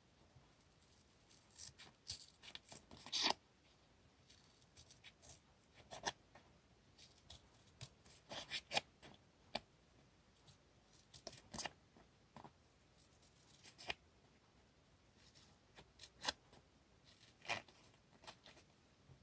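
Diary-decorating desk work: paper, masking tape and memo sheets being handled, with scattered soft rustles and small clicks. The loudest clusters come about three seconds in and again around eight to nine seconds.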